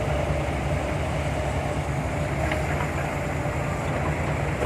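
Heavy diesel construction machinery, an excavator and dump trucks, running steadily with a low pulsing rumble.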